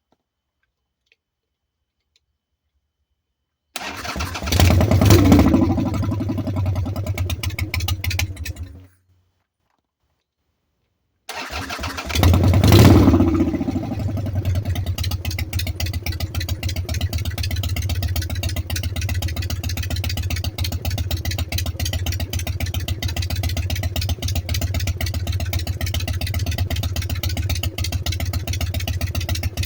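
Freshly rebuilt motorcycle engine starting about four seconds in, revving briefly, running a few seconds and then dying. It starts again a couple of seconds later, revs once and settles into a steady idle.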